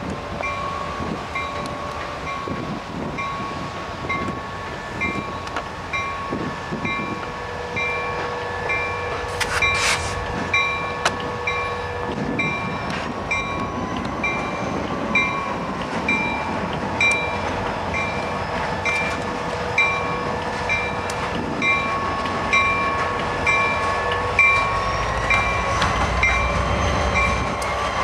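A train rolling past, with a bell ringing steadily at about one and a half strokes a second, a high steady squeal from the wheels, and a low rumble with regular clacks from the railcars.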